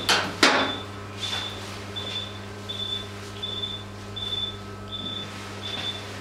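Steady beeping of an anaesthesia patient monitor, one short high beep about every three quarters of a second in time with the heartbeat, over a steady electrical hum. Two sharp clatters of metal instruments come right at the start.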